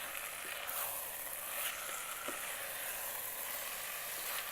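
Cubed chicken breast sizzling steadily in onion, tomato and spices in an Instant Pot on saute mode, with a few faint ticks.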